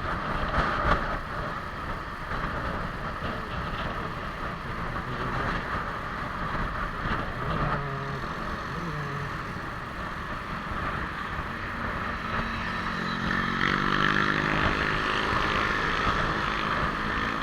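Suzuki Smash 115's single-cylinder four-stroke engine running under way, with a steady rush of wind and road noise. About 13 seconds in, the engine note gets louder and climbs in pitch as the bike accelerates.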